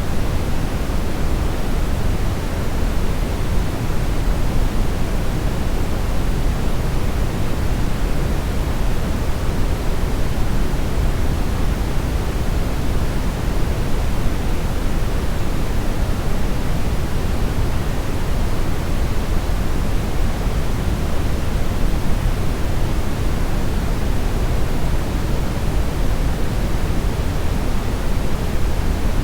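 Steady brownish noise: an even, unbroken rushing hiss, heaviest and deepest in the low end and softer at the top, with no changes or events.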